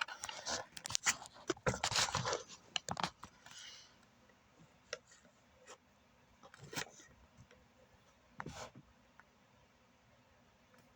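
Cracked bowling ball making sharp popping clicks: a quick run of them in the first three seconds, then single pops about five, seven and eight and a half seconds in. The pops are the sign of a crack in the ball.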